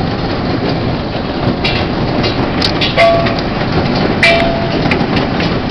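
Steady loud roar of a severe storm's rain and wind, with scattered sharp knocks of things striking, likely hailstones.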